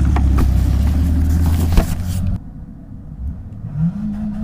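Motorcycle engine running steadily at speed, with wind noise over it. About two seconds in, the sound cuts off abruptly to a much quieter low rumble.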